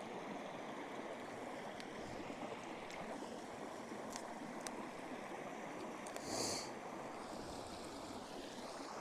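Steady rushing of a small woodland stream running. It is broken by a few faint clicks and one brief, bright rustle a little past the middle.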